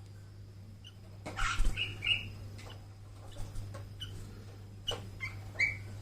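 Sooty-headed bulbul chick giving short, high chirps: a cluster about a second and a half in and a few more near the end, with a brief rustle and clicks among the first ones. A steady low hum runs underneath.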